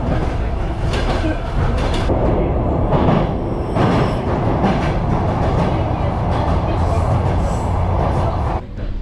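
Soviet-era elektrichka electric commuter train running on the rails: a steady, loud rumble of the moving train. It cuts off abruptly near the end.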